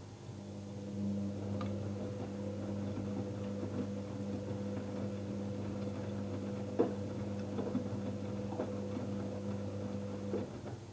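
Electrolux washing machine's motor turning the drum during a wash: a steady hum that starts about half a second in and stops shortly before the end, with scattered light ticks and knocks and one sharper knock about seven seconds in.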